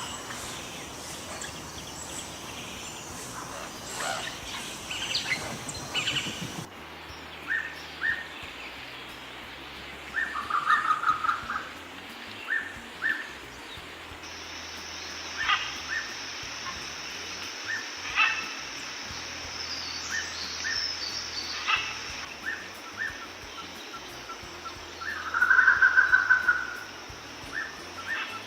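Birds calling in short repeated chirps, with louder trills about ten seconds in and again near the end. A steady high-pitched hum runs beneath the second half.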